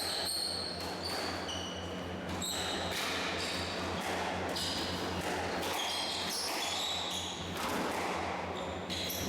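Squash rally: the ball is struck and smacks off the walls again and again, amid many short high squeaks of players' shoes on the court floor, over a steady low hum.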